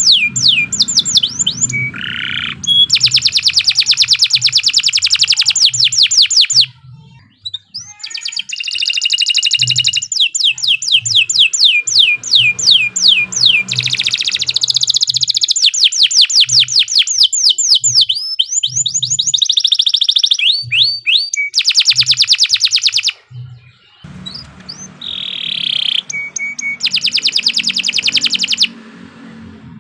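Domestic canary singing a long, fast song of trills: runs of quick downward-sweeping notes repeated many times a second, with two brief pauses.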